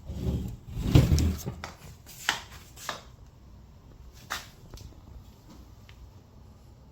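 Handling noise: low knocks and rustling in the first second or so, then a few sharp clicks spaced a second or more apart.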